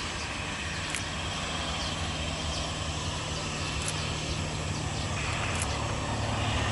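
A steady engine drone with a low hum, growing slowly louder toward the end.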